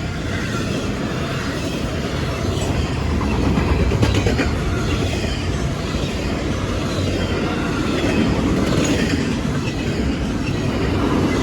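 CSX eastbound intermodal freight train passing, its wheels running steadily on the rails.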